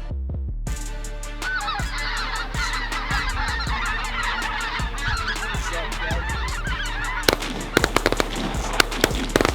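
A large flock of geese honking and calling all together in a dense, overlapping chorus. In about the last two seconds, a rapid series of sharp, loud cracks cuts through the calling.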